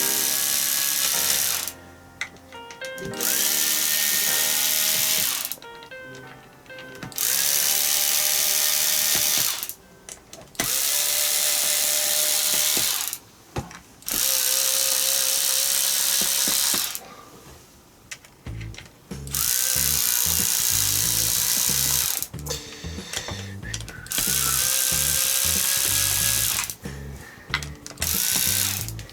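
A handheld power driver running in about seven bursts of two to three seconds each, its motor whine rising in pitch as each burst starts, with short pauses and small clicks between. Background music with a steady beat underneath, plainer in the second half.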